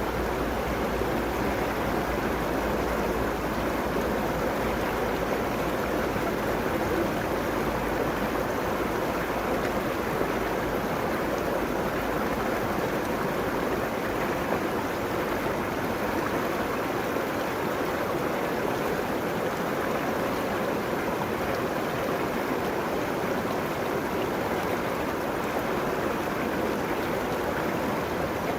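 River water flowing steadily along its banks, a constant even rushing. A low rumble sits underneath in the first half and fades out about halfway through.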